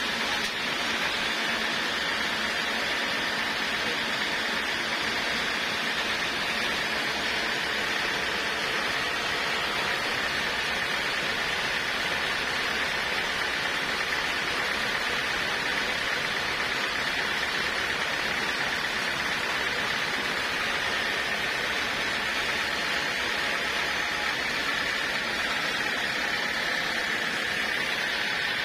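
Portable sawmill running steadily through a log cut: an unbroken rushing noise with a steady high whine on top, holding the same level throughout.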